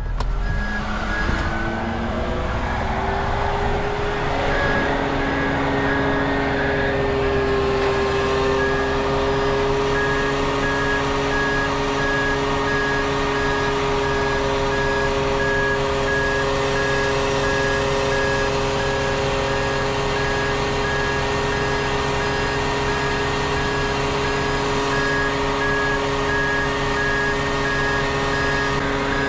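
Roll-off truck's diesel engine revving up to high idle and holding a steady pitch while it drives the hydraulic hoist. A high-pitched warning beeper sounds in a fast steady pattern over it.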